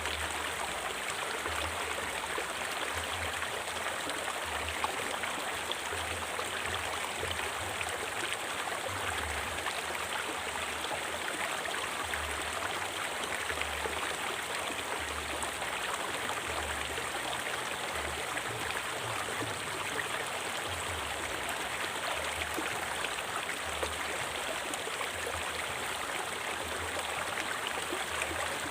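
A river or forest stream flowing steadily, a continuous rushing and splashing of water with a low, uneven rumble underneath.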